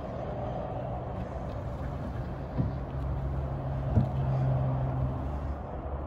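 A vehicle engine running steadily at low revs, with a short knock about two and a half seconds in and a louder thump about a second later.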